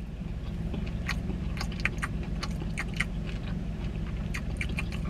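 Close chewing of a crisp fried chicken wing, with scattered short crunches and mouth clicks, over the steady low hum of a car engine idling.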